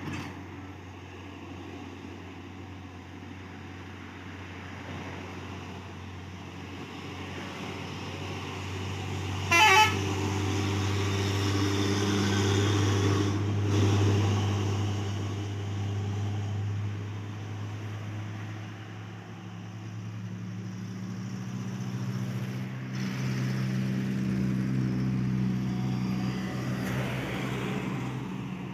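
Loaded truck engines running under load on a steep climb, a steady low drone that swells and fades as vehicles pass. About a third of the way through, a short, loud vehicle horn blast cuts across it.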